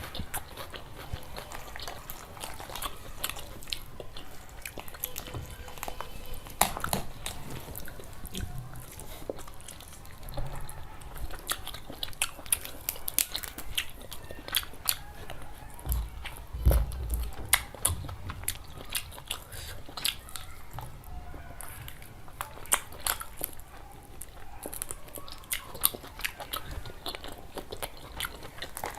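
A person eating close to the microphone: steady chewing and biting with many sharp crunches and clicks. A heavier low thump comes a little past halfway through.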